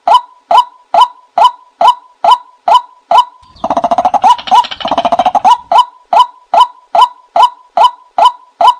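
A bird calling over and over: short, sharp notes about twice a second, each dropping slightly in pitch, very evenly spaced. About three and a half seconds in, a harsh, fast-pulsing rattle runs for about two seconds, and then the calls resume.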